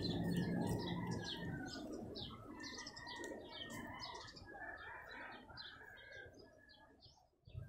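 Small birds chirping, many quick high chirps one after another, growing fainter toward the end.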